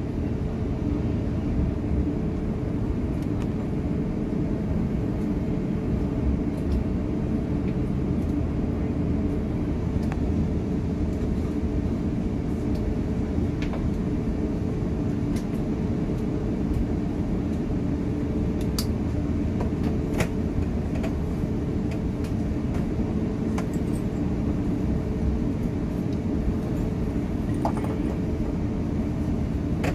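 Airbus A350-900 cabin noise: a steady low rumble of the engines and airflow with a constant hum, heard from inside the passenger cabin, and a few faint clicks.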